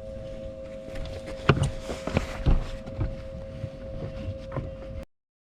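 Steady two-note electric hum with wind rumble and several sharp knocks and bumps on a bass boat. The sound cuts off abruptly about five seconds in.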